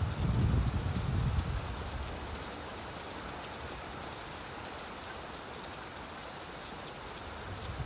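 Steady rain falling on a surface, an even hiss of drops. A low thunder rumble fades out in the first second and a half, and another starts right at the end.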